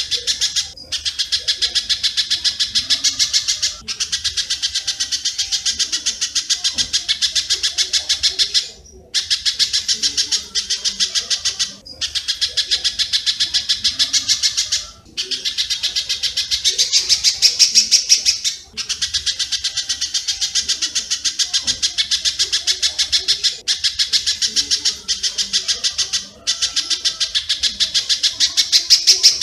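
Rapid, dense run of sharp bird chirps, about ten a second, in phrases a few seconds long with brief breaks. It is a masteran (bird-training) recording of spiderhunter (pijantung) calls set with swiftlet (walet) calls.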